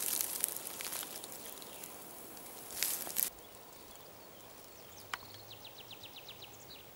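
Quiet rustling in dry forest litter, with a short louder crackling rustle about three seconds in. Near the end comes a faint, fast, high trill of about eight notes a second.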